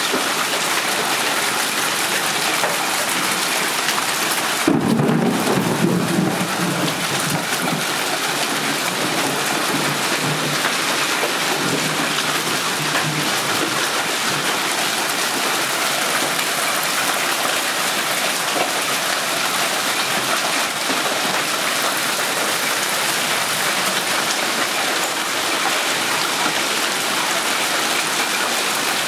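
Hail and rain pelting down in a steady dense hiss. About five seconds in a roll of thunder breaks in and rumbles away over the next several seconds.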